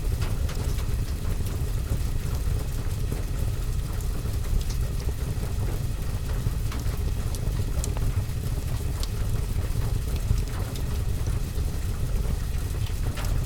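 Steady rain on a window and roof over a deep, constant low rumble, with scattered faint pops and crackles from a fireplace fire.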